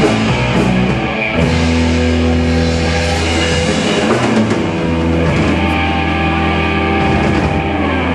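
Live rock band playing loud amplified music: electric guitar, bass and drum kit, with sustained bass notes throughout.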